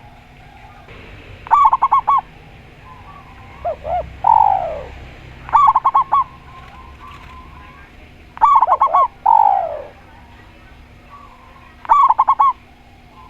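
A zebra dove and a spotted dove calling in turn. The zebra dove gives four short bursts of rapid, quick-fire cooing notes, and the spotted dove twice answers with a falling coo.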